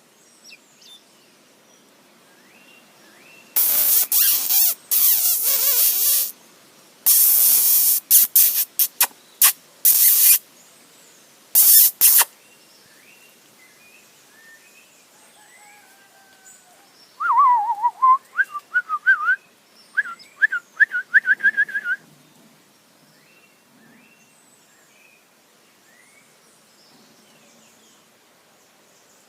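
A bird calling: a loud series of short, pitch-gliding whistled notes for about five seconds in the second half, with faint small chirps throughout. Earlier come several seconds of loud rushing bursts of noise.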